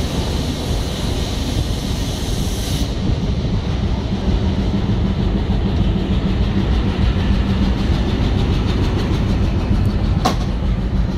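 Passenger train coach rolling out of the station, heard from its open doorway: a steady rumble of wheels on the rails with a faint, even clatter and a single sharp clank near the end. A high hiss cuts off suddenly about three seconds in.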